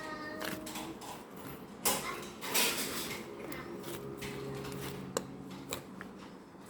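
Knocks and clatter of small objects being handled, with two louder knocks about two and two and a half seconds in.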